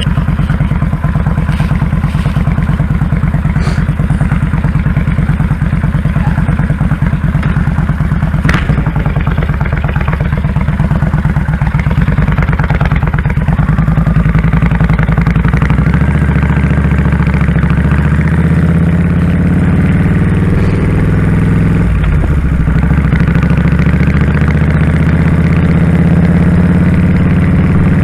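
2001 Kawasaki Drifter 1500's V-twin engine running with a steady, pulsing low note. The note thickens about halfway through and dips briefly near the end.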